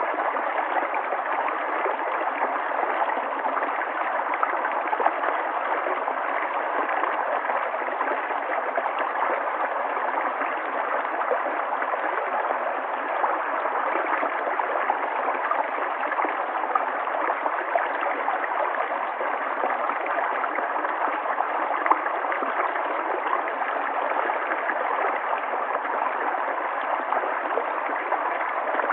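River water flowing and gurgling steadily, a continuous rushing with small splashes.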